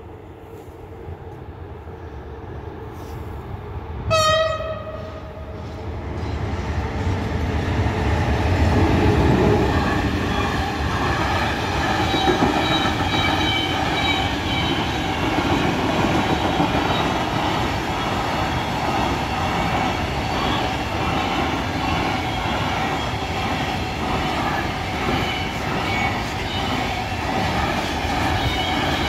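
Container freight train: a single short horn blast about four seconds in, then the train passes close by, loudest around nine seconds in. Its wagons keep rolling past in a steady rumble with high ringing tones over it.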